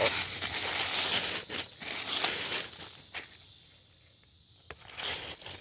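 Leafy vines and weeds being pulled and torn up by hand, a rustling, crackling tearing of foliage and stems. It is loudest for the first few seconds, dies down, and comes back briefly near the end.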